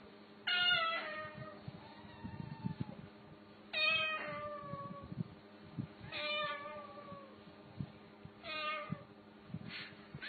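A cat meowing four times, each call under a second long and sliding slightly down in pitch at its end, with pauses of about two to three seconds between them.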